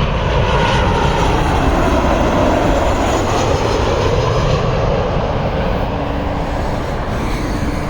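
Jet airliner on landing approach passing overhead. Its engines make a loud, steady noise whose pitch falls as it goes by, and it eases off slightly in the second half.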